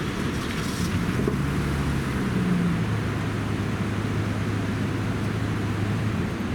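A vehicle engine running amid street traffic noise, its low hum dropping in pitch about three seconds in. No siren is sounding.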